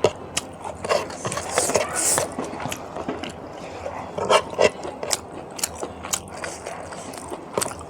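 Close-miked eating sounds: a person chewing and biting food, with many short wet clicks and mouth smacks and a few louder bursts.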